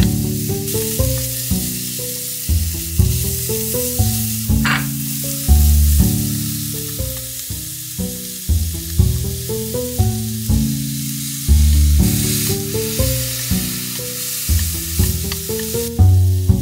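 Onion and carrot strips sizzling as they are stir-fried in a frying pan, under background music.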